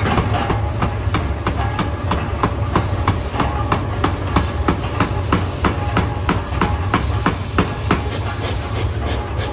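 Forge-shop machinery running: a steady low drone with sharp, evenly spaced metal knocks about three times a second.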